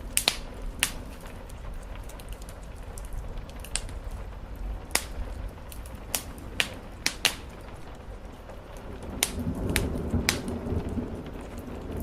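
Wood fire crackling in a fireplace, with about ten sharp, irregular pops, over a steady hiss of rain on the roof; the low rumble swells near the end.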